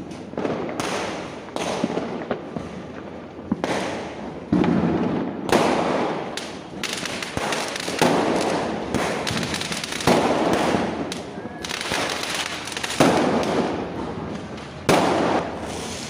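Fireworks going off one after another: sudden bangs about a second or two apart, each trailing off in a fading hiss.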